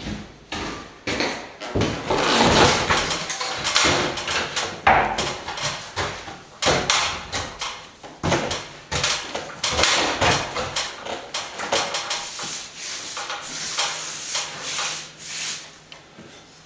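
Hand tools scraping and knocking against a lath-and-plaster wall in irregular strokes.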